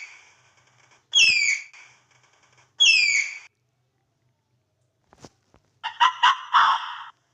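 An animal's calls: two sharp whistled calls, each sliding down in pitch, then a rapid series of about five harsh, buzzy calls near the end.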